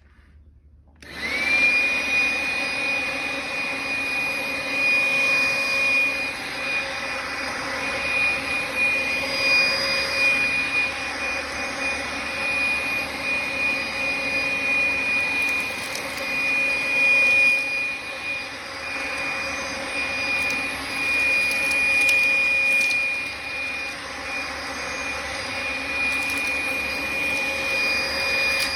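Makita 18V LXT compact cordless stick vacuum switched on about a second in, its motor spinning up with a quick rising whine and then running steadily with a high whine while it sucks up dog hair and flaxseed chips from the floor.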